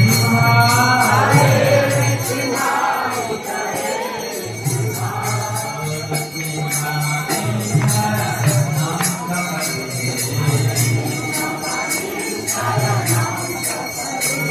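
Devotional group chanting, kirtan style, with small hand cymbals jingling in a steady beat under the sung lines.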